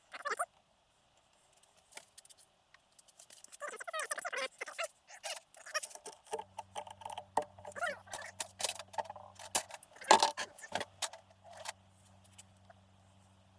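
Small metal clutch parts from a Kawasaki KD175 engine clinking and rattling as they are handled and set down, an irregular run of clicks and clanks with the loudest knock about ten seconds in. A steady low hum starts about six seconds in.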